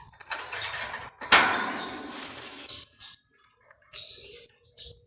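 Pet yellow-vented bulbul (trucukan) moving about in its cage while feeding: rustling and fluttering, loudest about a second in with a sudden start that dies away, followed by a few short high chirps.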